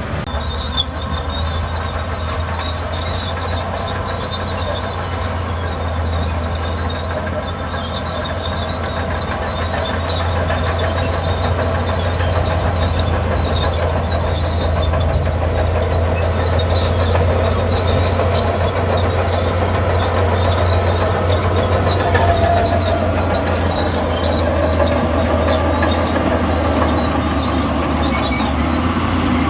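Bulldozer's diesel engine running steadily under load, with squealing and clanking from its steel tracks; it gets somewhat louder about ten seconds in.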